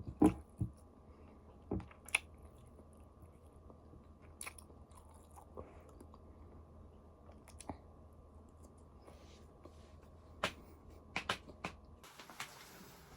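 A person eating: scattered biting and chewing sounds, heard as short sharp clicks, the loudest right at the start, over a low steady room hum.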